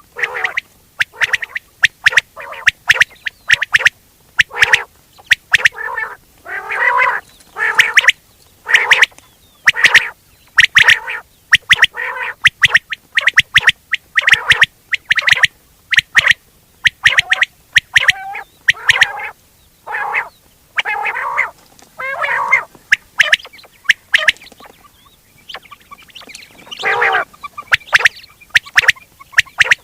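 Quail calling over and over in quick runs of short, harsh notes mixed with a few longer ones, with a brief lull about two thirds of the way through. It is a recorded quail call of the kind played to lure quail when hunting.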